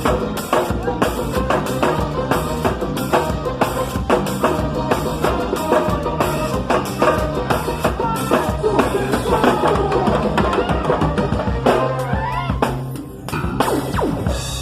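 A live band playing with a drum kit driving a steady beat, over bass notes and a melody line. The playing drops away briefly near the end, then comes back in.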